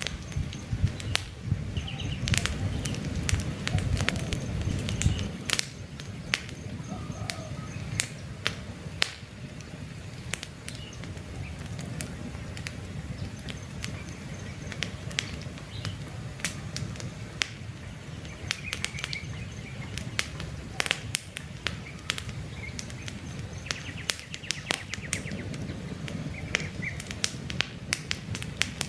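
Campfire crackling with frequent sharp pops and snaps, over a low rumble of the flames for the first five seconds or so; birds chirp faintly in the background.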